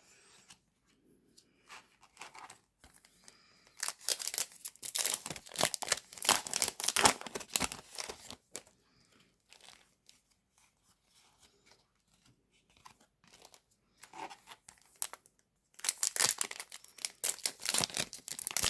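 Foil Yu-Gi-Oh! booster packs being torn open and crinkled by hand: a spell of tearing and crinkling about four seconds in and another near the end, with quieter rustling of the wrappers and cards between.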